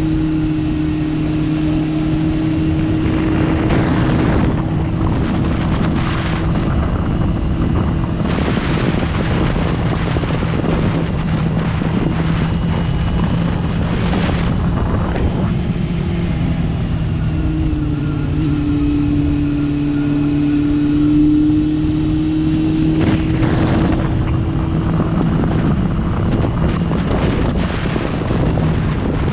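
Motorcycle engine running at a steady cruise with wind rushing past. The engine note holds nearly constant, drops slightly about halfway through and then settles again.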